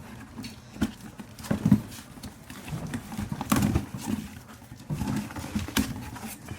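Handling of a gift box and its packaging: irregular knocks and thumps with rustling between them, the loudest knocks about two and three and a half seconds in.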